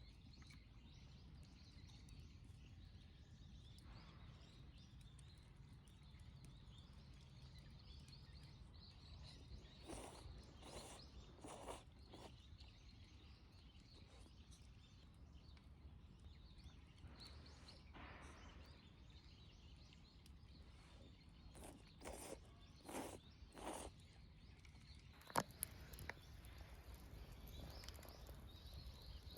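Near silence: quiet outdoor ambience with a low steady hum, broken by a few faint brief knocks or rustles and one sharp click about 25 seconds in.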